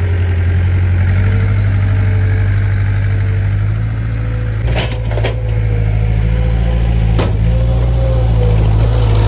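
Skid steer engine running steadily under work, with a higher whine that wavers in pitch over it. A few sharp knocks come about halfway through and again a couple of seconds later.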